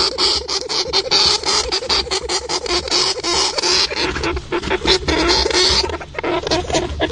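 Animal calls: a dense run of rapid chattering clicks and short squeaks.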